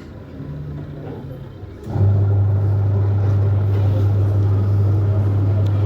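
Washing machine motor running after its repair: a fainter hum at first, then about two seconds in a loud, steady low hum with a noisy wash over it.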